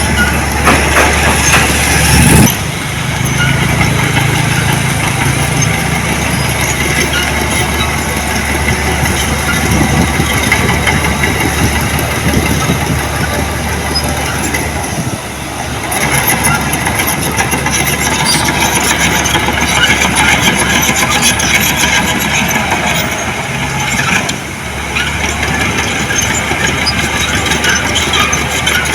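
Heavy diesel earthmoving machinery running loud and steady, with the sound changing abruptly about two seconds in and again around the middle and near the end.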